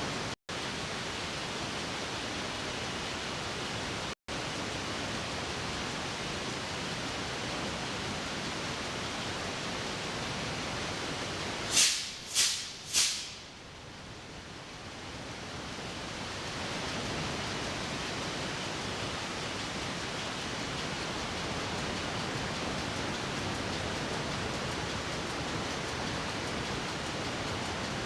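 Steady, dense noise of a ship's engine room with the MAN B&W main diesel engine running. About twelve seconds in come three short, loud, high-pitched bursts about half a second apart, after which the noise dips and slowly builds back up.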